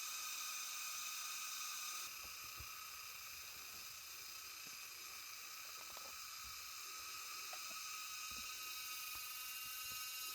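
Steady forest ambience dominated by a constant high-pitched insect drone, with a few faint soft ticks scattered through it.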